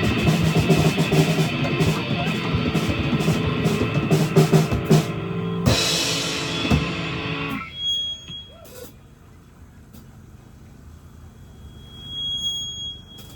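Live rock band with electric guitar and drum kit playing the end of a song, closing on a cymbal crash about six seconds in; the music stops shortly after, leaving a faint, steady high tone.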